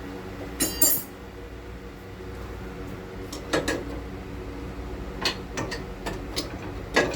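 Scattered metal clinks and knocks from handling tools and suspension parts, over a steady low hum. The loudest clinks come just under a second in and near the end.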